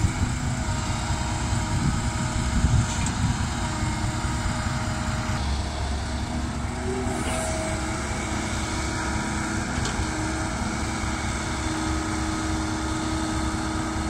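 Heavy earthmoving machinery running steadily, the diesel engine of a dump truck or excavator working at the digging site. The low rumble gets stronger about five seconds in.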